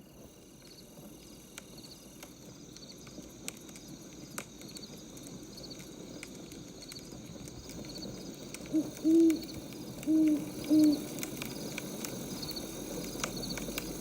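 An owl hooting four times, in two pairs, about two thirds of the way in, over crickets chirping steadily and the scattered crackle of a wood fire. The background noise grows gradually louder.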